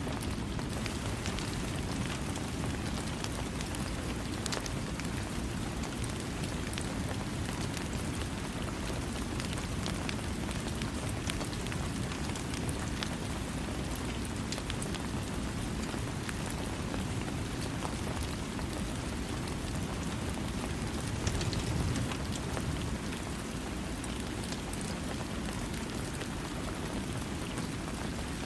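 Steady rain falling, a dense even hiss with many small drop ticks scattered through it, swelling briefly about three quarters of the way through.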